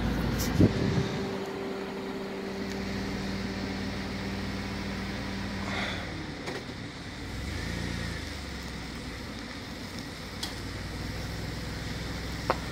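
Car engine running with a steady hum, heard from inside the car. There is a single knock about half a second in.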